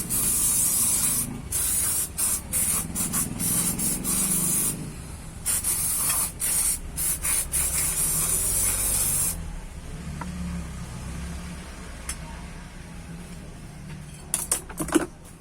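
Aerosol cleaner sprayed onto starter motor parts in a run of long and short spurts of loud hiss, stopping about nine seconds in. A few sharp clicks follow near the end.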